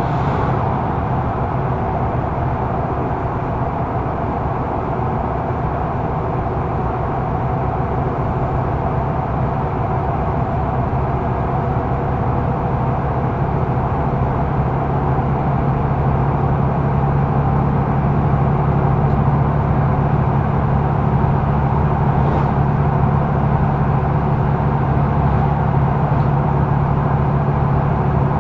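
Mercedes-Benz O530 Citaro facelift intercity bus under way, heard from inside: a steady engine and drivetrain hum with road noise, growing a little louder about halfway through.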